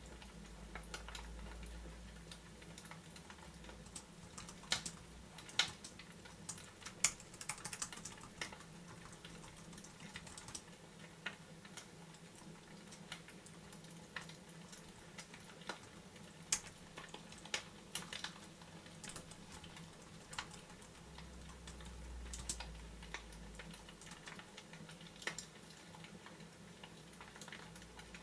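Fireplace fire crackling: irregular sharp pops and snaps over a soft low hum, with a gentle low rumble swelling near the start and again about two-thirds of the way through.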